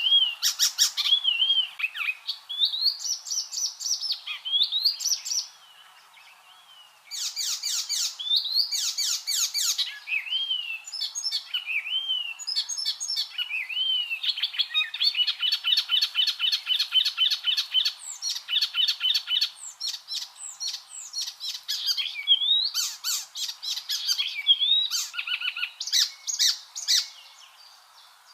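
Icterine warbler singing a fast, varied song of rapid clicking notes, whistled slurs and chattering, buzzy trills, all high-pitched. There is one short break about six seconds in.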